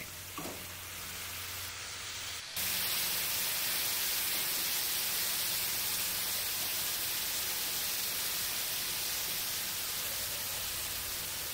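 Smashed beef patties and sliced onions sizzling on a hot gas griddle: a steady hiss that gets abruptly louder about two and a half seconds in.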